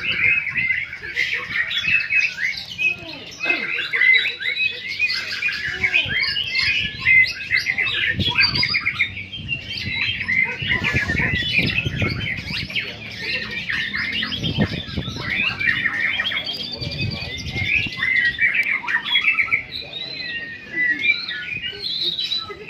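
Several caged white-rumped shamas (murai batu) singing at once in competition: a dense, unbroken stream of varied, overlapping whistles, trills and rattling chirps.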